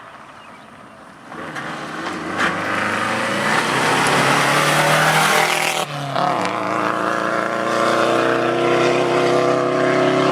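Rally car engine approaching and growing louder, then after a brief dip about six seconds in, running at steady high revs.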